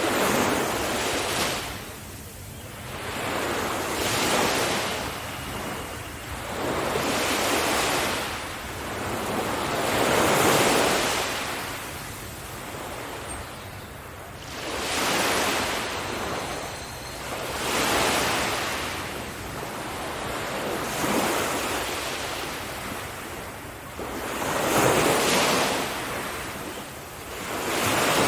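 Surf on a beach: waves break and wash back in repeated swells, one about every three seconds.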